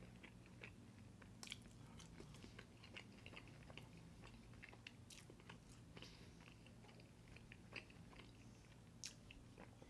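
Faint chewing: soft, scattered wet mouth clicks and smacks of someone eating, over a low steady hum.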